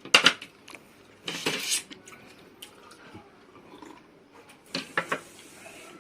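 Cutlery clinking against plates and bowls while eating: a few sharp strikes at the start and a cluster again near the end, with a short rasping noise about a second and a half in.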